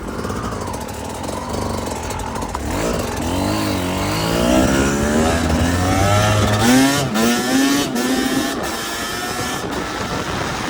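Dirt bike engine accelerating hard, its pitch climbing and dropping several times as it revs up through the gears, over steady wind and road noise.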